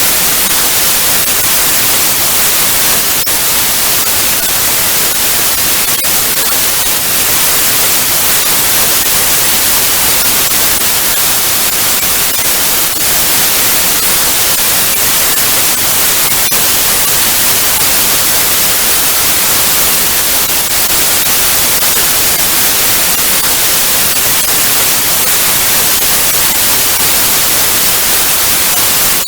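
Analogue TV static: loud, steady hiss, brightest in the treble, with faint crackles here and there.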